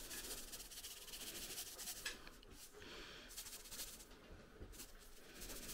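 Faint rustling and short scratchy shakes of salt being sprinkled onto food.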